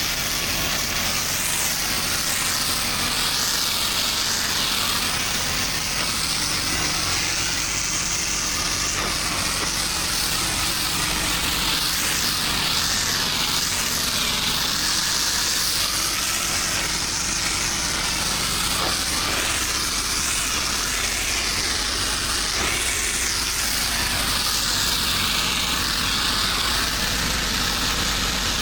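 Pressure-washing equipment's engine running steadily, with a continuous hiss of spraying water over it.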